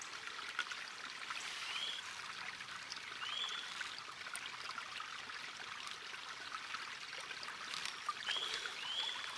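Steady outdoor hiss, like running water or wind through foliage, with a few short high bird chirps: one about two seconds in, one a little later, and two close together near the end.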